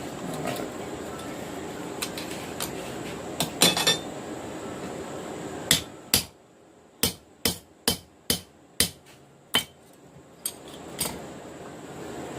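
Hammer blows on hot steel over the anvil, about eight sharp ringing strikes roughly two a second, as the knife blade is forged out. A few fainter taps follow them. Before the blows there is a steady rushing noise, which drops away just as the hammering starts.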